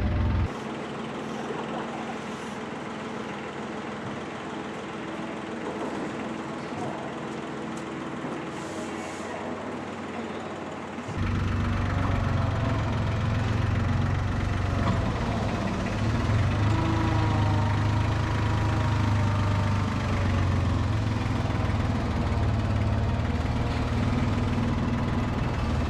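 A heavy vehicle running with a steady low hum, which becomes much louder about eleven seconds in.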